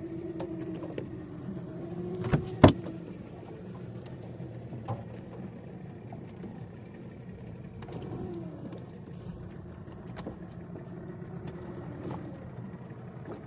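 Fishing boat's engine running steadily with a low hum, and two sharp knocks about two and a half seconds in.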